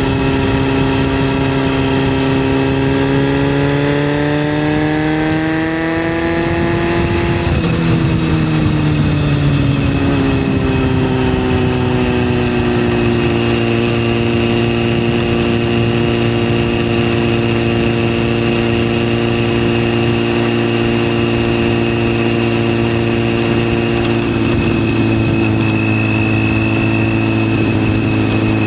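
Yamaha FZS600 motorcycle's inline-four engine under way, its pitch climbing for the first several seconds as it accelerates, dropping sharply about seven seconds in, then settling into a steady cruise.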